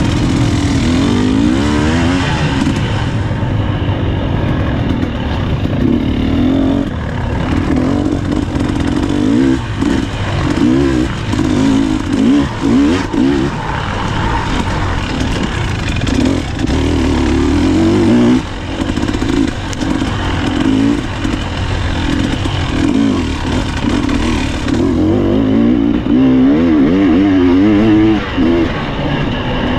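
Husqvarna TE300 two-stroke dirt bike engine ridden hard off-road, its pitch rising and falling constantly as the throttle is worked, with brief throttle cuts and rattling from the bike.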